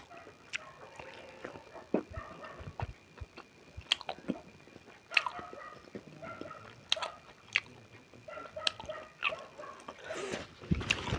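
Close-up eating of beef momo dumplings: chewing and biting with irregular wet mouth clicks and smacks.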